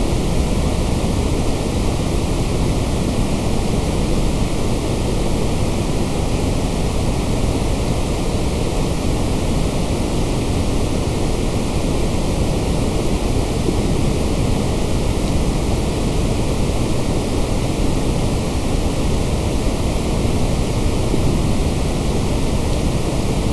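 Steady, unbroken white noise, an even hiss across all pitches that holds at a constant level.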